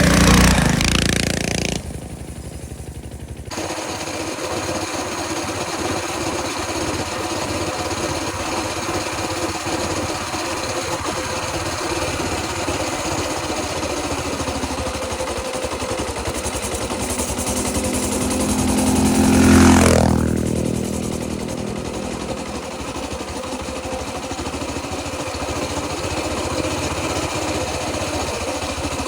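Minibike engines running: a steady small-engine drone, with a bike passing close twice, just after the start and again about twenty seconds in, its pitch dropping as it goes by.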